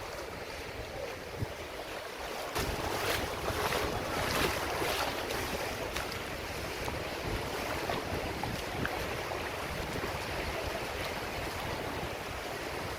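Wind buffeting the microphone over the rush and splash of water against a moving boat at sea, growing louder about two and a half seconds in.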